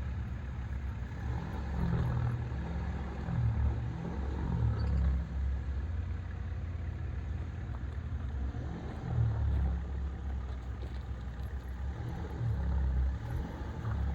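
Four-wheel-drive's engine working up a steep off-road climb, a low rumble with the revs surging and easing several times.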